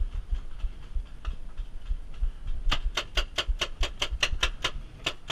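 Paintball markers firing: a few scattered shots, then, about two and a half seconds in, a fast string of sharp shots at about five a second.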